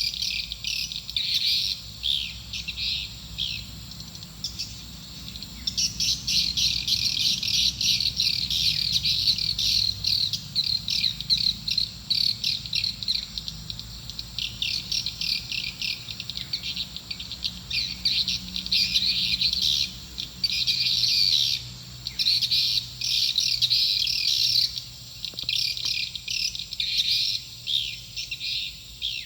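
Swiftlet lure call: dense, rapid high-pitched twittering chirps in bursts separated by short breaks, the sound played to draw swiftlets to a nesting house.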